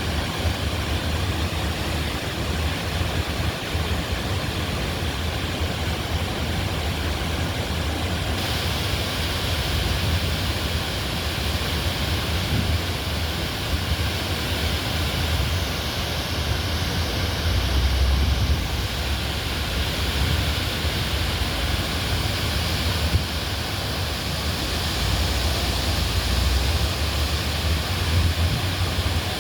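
Swollen river in flood rushing past: a steady wash of water noise with a deep rumble underneath, growing brighter about eight seconds in.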